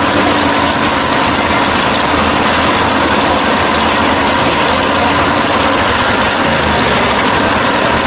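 Engines of a 1965 Pontiac GTO and a 1969 Chevelle drag car idling loudly and steadily while the cars wait to race.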